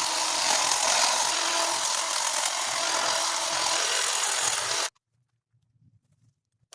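Handheld power cutting tool, the mini chainsaw or hedge trimmer, running while cutting through branches, then stopping abruptly about five seconds in.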